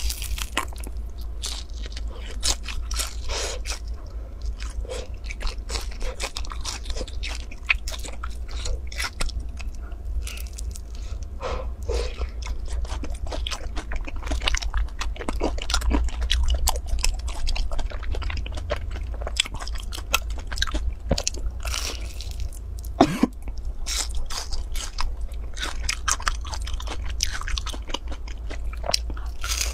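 Biting and chewing of a crisp, crumb-topped round pastry: a steady run of irregular crunches and chewing, close-miked.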